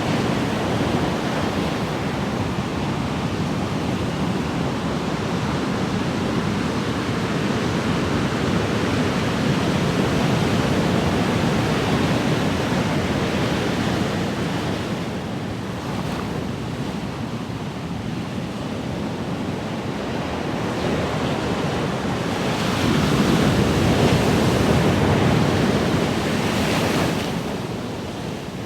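Ocean waves breaking and washing on a shore, a continuous rushing that swells and eases, with one louder surge toward the end that falls away.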